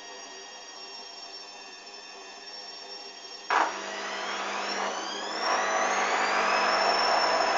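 Hoover DYN 8144 D washing machine humming steadily, then a sudden clunk about three and a half seconds in as the motor starts. A rising whine follows as the drum speeds up into a spin, growing louder about two seconds later.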